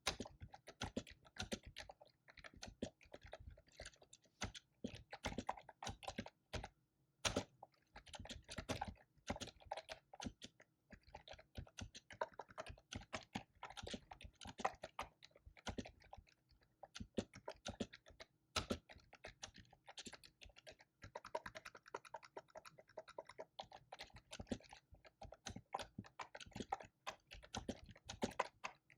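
Fast typing on a computer keyboard: a dense, irregular run of key clicks, with a brief pause about seven seconds in.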